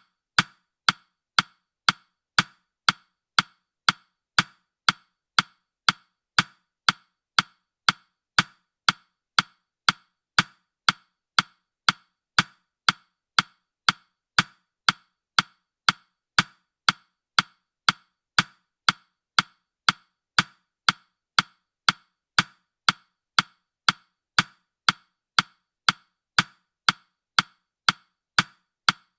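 Countdown timer's ticking sound effect: a sharp, woody tick repeating evenly about twice a second.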